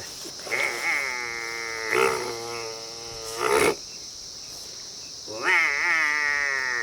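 A man imitating a water buffalo's call with his voice: two long, drawn-out lowing calls, the second starting about five seconds in.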